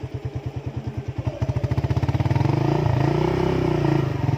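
Motorcycle engine running, getting louder about a second and a half in as it speeds up, its pitch rising and then easing off near the end.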